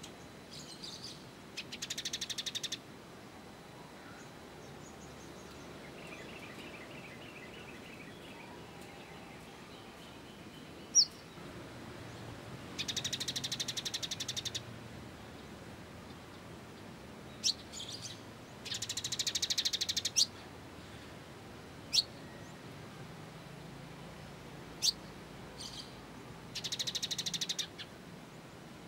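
Recorded sunbird song used for training cage birds. It comes as four bursts of rapid, dense trilling about one to two seconds each, with a softer trill and several sharp single high chirps in between.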